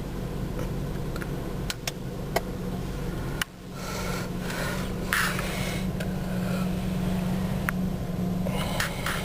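2003 Ford Ranger's engine idling steadily, heard from inside the cab, with scattered sharp clicks and rustling as cab controls are handled.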